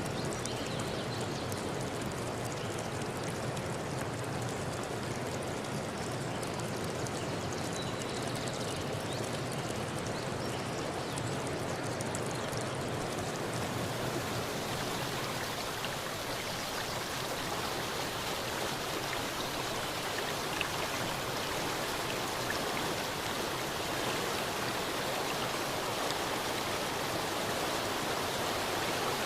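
River stream flowing steadily: a continuous rush of water. About halfway through, the rush turns brighter and hissier and the low rumble fades.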